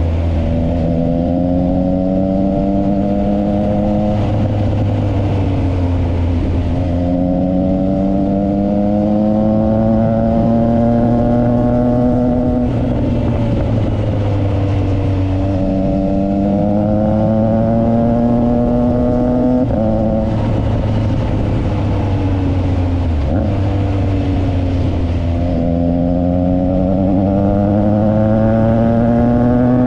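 Triumph Trident 660's three-cylinder engine through a Yoshimura exhaust, accelerating and easing off over and over. The engine note climbs steadily in pitch on each pull and falls back between pulls, about five times.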